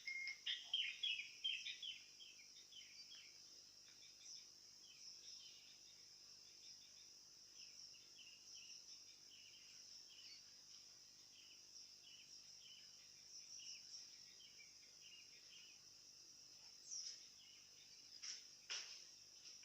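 Sooty-headed bulbul (kutilang) chirping in quick, busy runs of short notes, loud for the first couple of seconds and then fainter, with two sharp falling whistles near the end. A steady high insect drone runs underneath.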